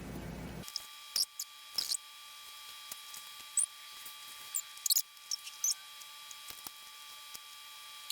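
Faint, scattered metallic clicks and small squeaks of watchmaker's tweezers and a fine screwdriver handling tiny screws in a watch movement, over a faint steady high tone.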